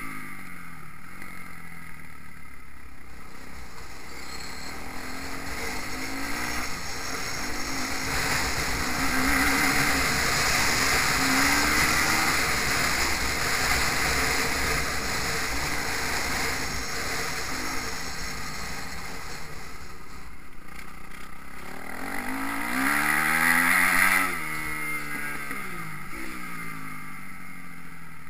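Motocross bike engines revving up and down as they ride the track, the pitch rising and falling repeatedly, with the loudest burst of revs about 23 seconds in cut off sharply just after. Wind rumbles steadily on the microphone throughout.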